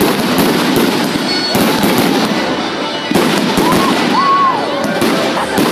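Fireworks going off in a rapid series of crackling bangs.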